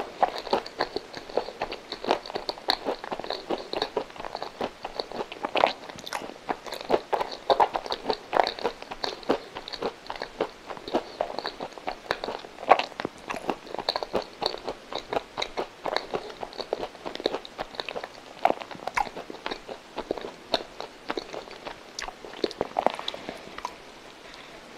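Close-miked chewing of a soft, coconut-coated custard milk roll: many quick wet mouth clicks and smacks, with bites in between.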